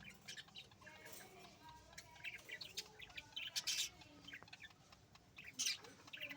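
Newly hatched birds cheeping: many short, high chirps, loudest about three and a half seconds in and again near the end.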